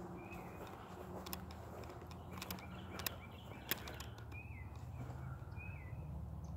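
A small bird calling outdoors: short chirps, each a quick note that curls downward, once near the start and three times in the second half. Underneath is a steady low rumble, with a few sharp clicks, the loudest near the middle.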